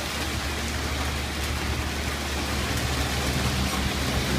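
Heavy rain pouring onto a paved street, a steady hiss, with a low rumble underneath.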